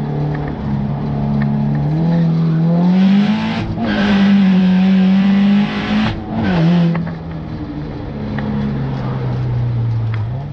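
Turbocharged Subaru STI engine under load on a track lap: the revs climb and hold high and loud at full throttle, break off briefly twice, then run lower for the last few seconds.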